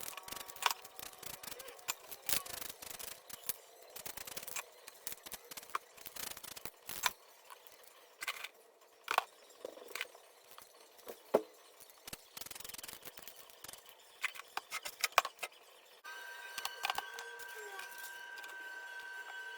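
Spray-painting work sounds: scattered clicks and taps from cans and tools, with a few short bursts of aerosol spray hiss. Near the end a steady high tone comes in under them.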